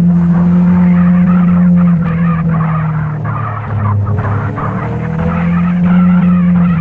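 Motorcycle engine running under way, with wind and road noise; its pitch drops about three seconds in and climbs again about two seconds later.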